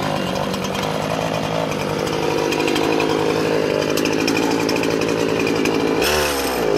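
Gas chainsaw running under held throttle at a steady high pitch, its revs falling away about six seconds in. The saw is temperamental and has to be handled gently on the throttle.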